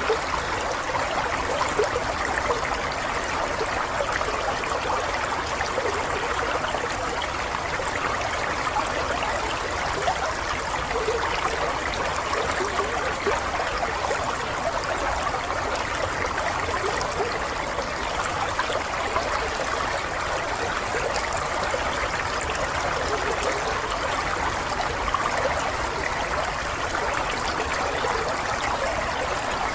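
Running water, a stream flowing and trickling steadily.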